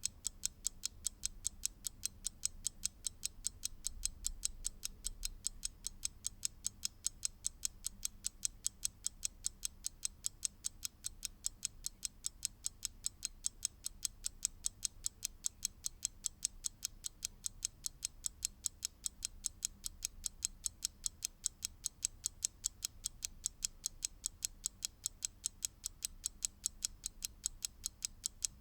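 Mechanical clock ticking, a rapid, even run of sharp, bright ticks.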